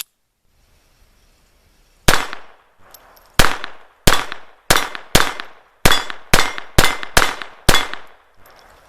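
Llama Especial .22 LR semi-automatic pistol firing ten shots in quick succession. The sharp cracks begin about two seconds in and come at an uneven pace, roughly two a second, each with a short fading tail.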